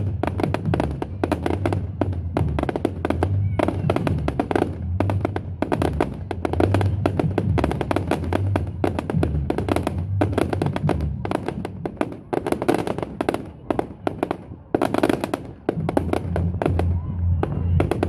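Fireworks going off in a rapid, near-continuous string of bangs and crackles, with music playing underneath.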